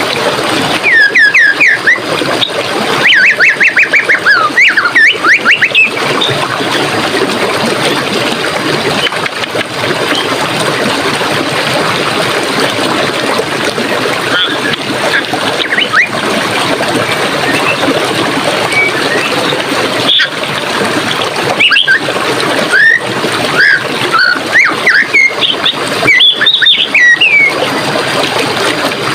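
Forest stream running steadily, with songbirds calling over it in bursts of quick, sliding chirps: a few bursts in the first six seconds and more toward the end.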